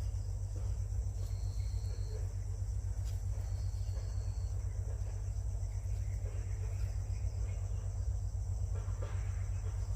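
Steady high-pitched buzzing of insects in the background, with two short, even trills about a second long each in the first half, over a steady low rumble.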